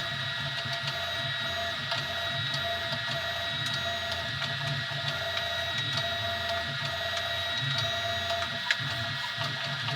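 Easythreed X2 desktop 3D printer running a print: a steady high whine over a low motor hum that keeps shifting as the motors move the print head, with faint ticks and one sharper click near the end.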